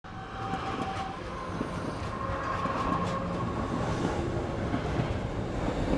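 A train rumbling along the rails, growing slowly louder.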